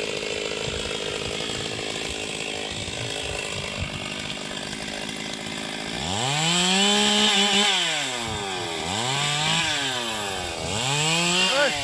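Chainsaw engine running at a steady low speed, then revved up and back down three times over the last six seconds.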